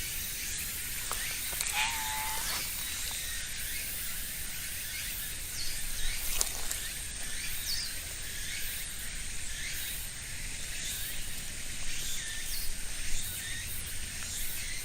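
Outdoor ambience: a steady high-pitched hiss with a thin constant whine over it, and short falling bird chirps now and then.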